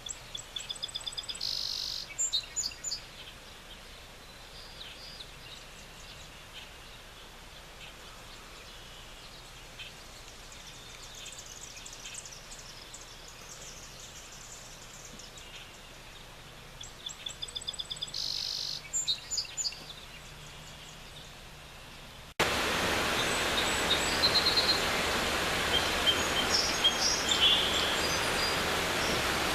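Songbirds singing in quick, high trills and chirps over a faint steady hiss. About three-quarters of the way through, the sound cuts abruptly to the loud, even rush of a running creek, with birds still chirping over it.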